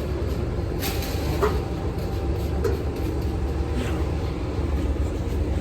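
Steady low rumble with a few faint knocks, about a second in and again near four seconds.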